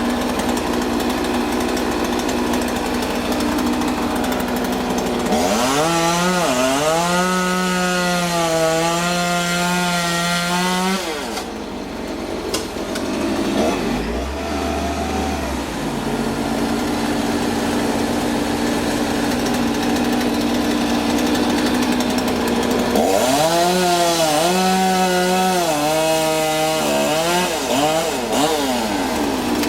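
Two-stroke chainsaw revved up twice, running at high throttle for about five seconds each time with its pitch wavering as it cuts, over the steady drone of a running engine.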